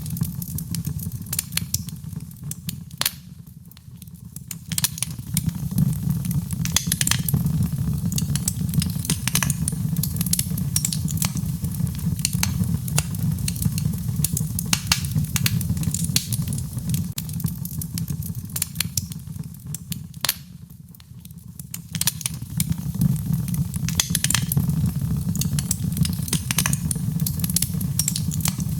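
Wood fire crackling and popping with many sharp snaps, mixed with a steady low rumble of rain. The sound dips down briefly twice: about four seconds in, and again around twenty-one seconds.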